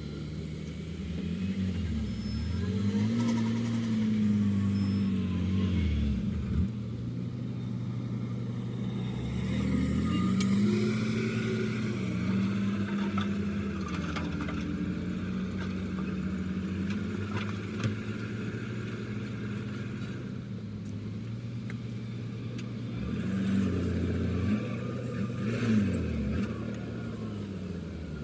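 Heavy diesel engines of earthmoving machinery running and revving up and down, their pitch rising and falling several times, with a few sharp knocks.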